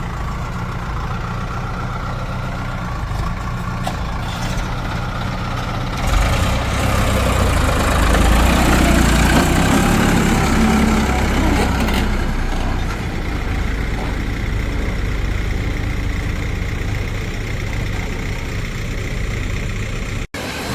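Heavy diesel engine running steadily, getting louder for several seconds in the middle before settling back.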